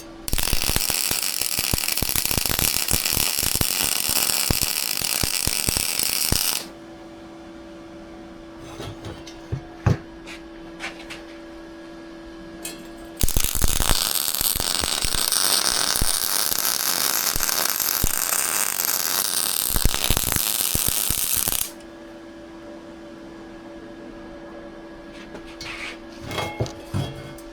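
Welding arc crackling in two runs, about six and eight seconds long, laying weld beads. In the gaps there is a steady hum and a few small clicks.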